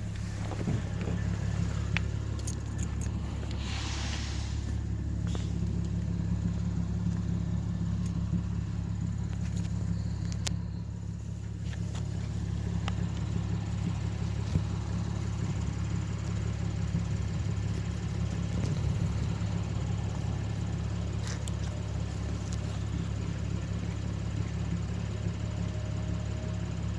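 Lexus IS250's V6 idling steadily through a muffler-deleted, straight-piped exhaust: an even low drone with no revving.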